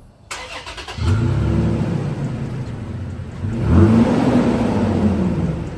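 2022 Toyota Tacoma TRD Off-Road's 3.5-litre V6 being cranked and catching about a second in, settling to a fast idle, then revved once and easing back down. It runs through the stock exhaust fitted with a new factory exhaust tip, which does not change the exhaust tone.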